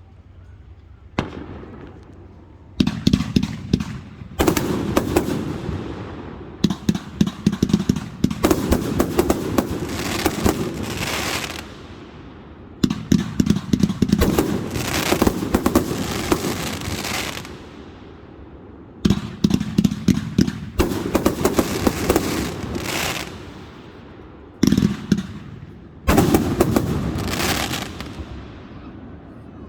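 Fireworks going off in rapid volleys. About ten clusters of quick, sharp bangs and crackle follow one another, each a second to a few seconds long, with short lulls between them.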